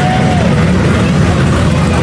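Muscle car engines rumbling steadily as cars pass in a slow parade, with a brief higher wavering tone over them near the start.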